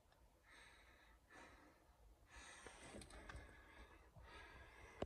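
Near silence with several faint, slow breaths close to the microphone, and a small click near the end.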